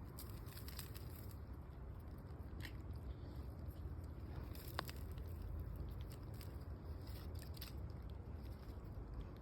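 Garden soil and manure being handled for planting, with scattered soft crunches and small clicks over a low rumble; one sharper click comes a little under five seconds in.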